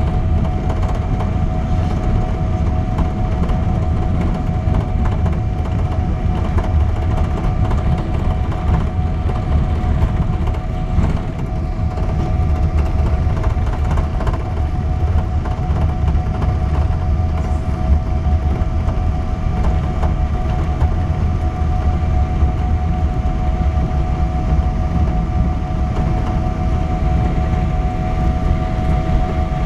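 Steady cabin noise inside a Boeing 777-200 airliner: a constant low rumble of engines and airflow with a couple of steady humming tones over it.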